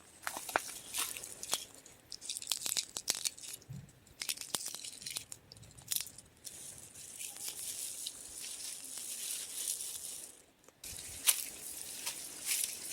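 Irregular dry clicks, crackles and rattles of small brittle things being handled, over a steady high hiss. The sound drops out briefly a little past ten seconds in.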